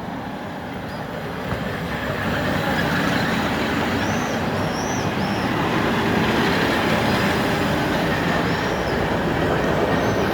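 Electric suburban train running on the track, a dense rumble of wheels and motors that builds over the first few seconds and then holds steady. Short high squeals sound now and then over it.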